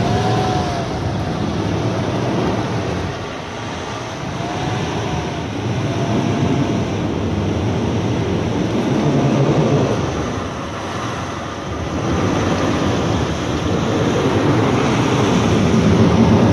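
Off-road 4x4 vehicle engine running under load, its revs rising and falling as it works the vehicle along.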